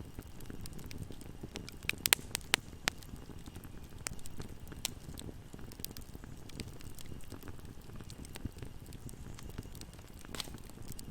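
Wood fire burning in a fireplace: a low steady rumble of flame with scattered crackles, a cluster of loud pops about two seconds in, and another loud pop near the end.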